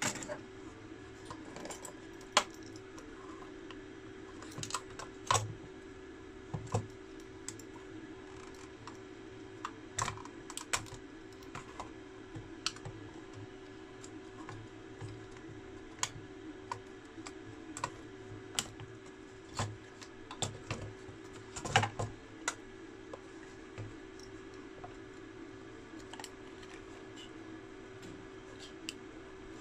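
Irregular light clicks and taps from tools and parts being handled on an electronics repair bench, over a steady low hum.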